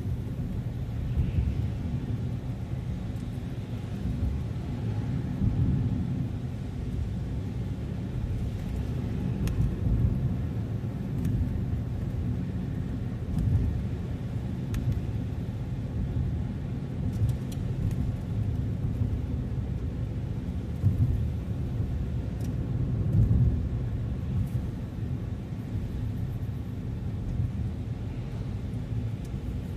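Car driving along a road: a steady low rumble of tyres and engine that swells and eases a little, with a few faint ticks.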